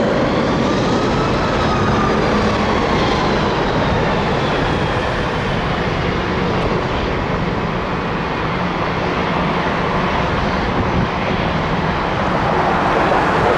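Jet airliner's engines passing close by: a loud, steady rush of engine noise with whining tones that slide in pitch over the first few seconds.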